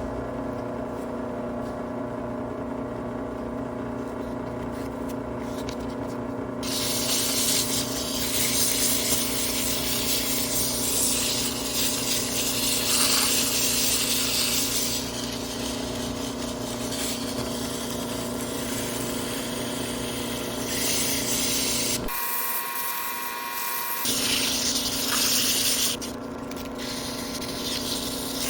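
Electric power tool running steadily with a motor hum. From about seven seconds in, a loud abrasive hiss of the tool working against metal joins it, and it briefly changes near the end.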